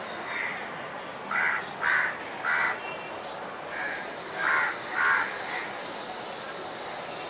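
A bird calling outdoors in short, separate calls: three in quick succession about a second in, then two more a few seconds later, with a few fainter calls between, over a steady background hiss.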